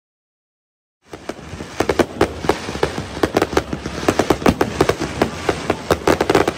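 Aerial fireworks bursting: a rapid, dense string of sharp bangs and crackles, several a second, starting about a second in.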